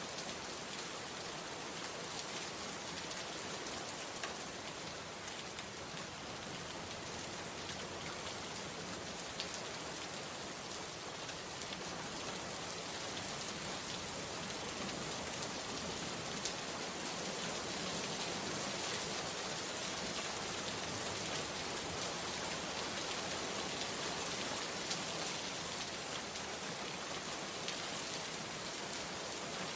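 Steady rain falling, an even hiss of rain with scattered sharp drop ticks, growing slightly louder about halfway through.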